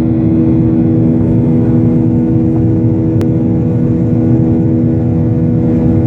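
Airliner engines running steadily, heard inside the passenger cabin as a loud drone with a steady hum. A single sharp click about three seconds in.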